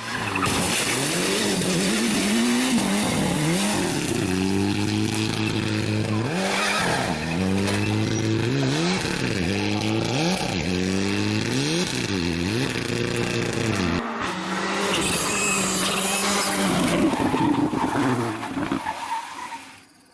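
Rally car engine at full revs, its pitch climbing and dropping again and again through gear shifts and lifts, under a broad hiss of tyres on the stage surface. A short break comes about two-thirds of the way through, then the engine carries on and fades out near the end.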